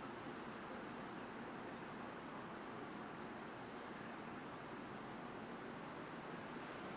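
Steady faint hiss with no distinct events: the background noise of the recording.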